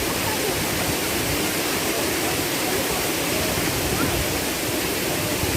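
Waterfall pouring into its pool: a steady, unbroken rushing of falling water.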